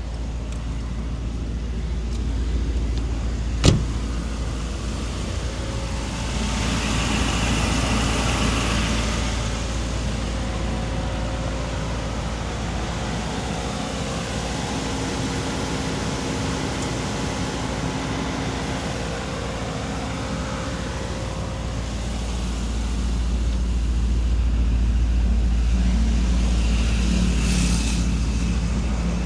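Mercedes-AMG SL55's 4.0-litre twin-turbo V8 running on the move with a steady low rumble, one sharp crack about four seconds in, and the sound swelling twice, around seven seconds in and again near the end.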